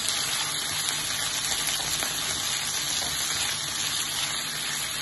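Chopped onions and curry leaves sizzling steadily in hot oil in a nonstick frying pan, stirred with a silicone spatula. There is an even hiss with little crackle, since the curry leaves went in together with the onions.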